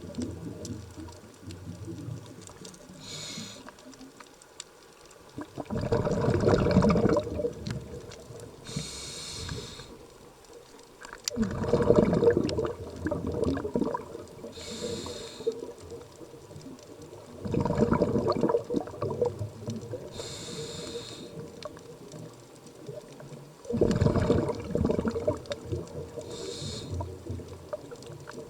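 Scuba diver breathing through a regulator underwater: a short high hiss of each inhale, then a loud rush of exhaled bubbles, four breaths about six seconds apart.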